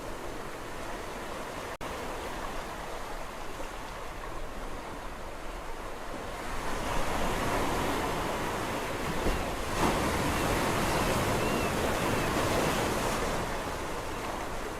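Sea waves on a shore: a steady wash of surf that swells louder about halfway through as a wave breaks and runs in, then eases off near the end.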